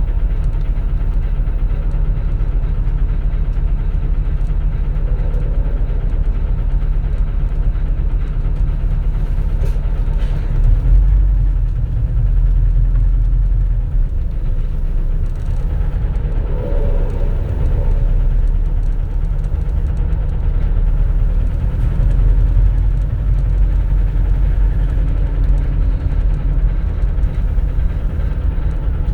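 Cabin running sound of a 2004 CNG (compressed natural gas) city bus: steady low engine and road rumble. It swells briefly louder about eleven seconds in, and a faint mid-pitched whine comes in around seventeen seconds.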